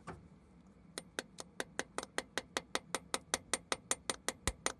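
Hammer rapidly tapping a tool into the metal cylinder-head core plug of a Cummins 2.8 engine to knock a hole in it. The quick, even metallic taps, about five a second, start about a second in, and each has a short high ring.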